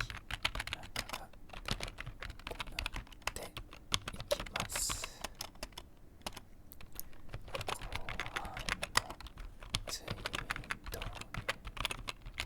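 Computer keyboard being typed on in quick, irregular runs of key clicks. A short hiss comes just before five seconds in, and there is a brief lull soon after.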